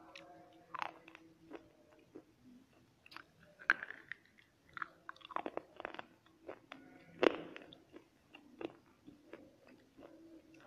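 Slate pencil being bitten and chewed close to a wired earphone microphone: irregular sharp crunches and grinding, with the loudest snaps about three and a half and seven seconds in.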